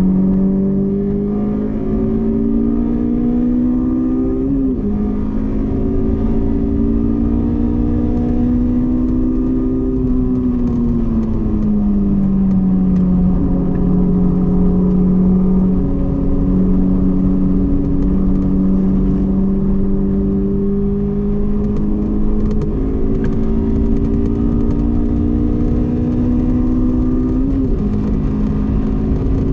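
Honda S2000's inline-four engine pulling hard on track, its pitch climbing steadily with sharp drops at three manual upshifts, one a few seconds in and two near the end. In the middle it eases off, the pitch falling smoothly for a few seconds, then holds steady before climbing again.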